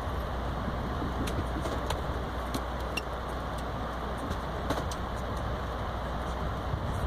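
Steady low rumble of a moving Amtrak passenger coach heard from inside the car, with scattered small clicks and rattles.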